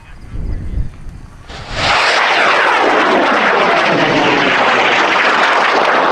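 Large high-power rocket's N3300 red-propellant solid motor lighting a little under two seconds in, then burning with a loud, steady roar of rushing noise.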